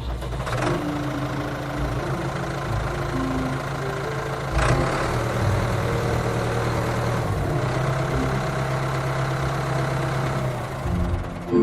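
Tractor engine running steadily, with a short knock about four and a half seconds in.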